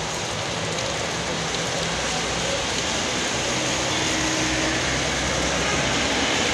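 Steady rain falling on a wet street, with traffic passing over the wet road and a low engine hum underneath.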